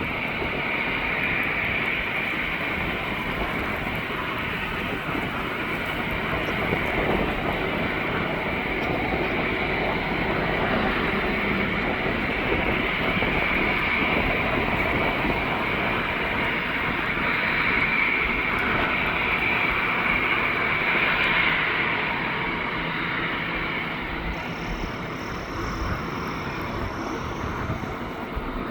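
Airbus A319 twin jet engines running with a steady whine. The sound swells for a while past the middle and then eases off.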